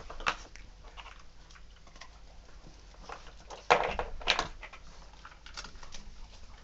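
A dog searching for hidden treats: light pattering and scuffling taps, with a louder scuffling burst about four seconds in.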